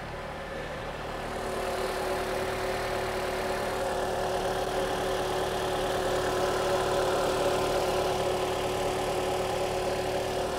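Peugeot 4007's 2.4-litre 16-valve four-cylinder engine idling steadily in Park, running with the CVT fluid level being checked on the dipstick.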